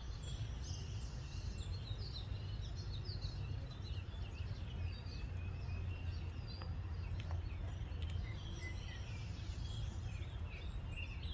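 Several songbirds chirping and singing continuously over a steady low rumble of outdoor background noise.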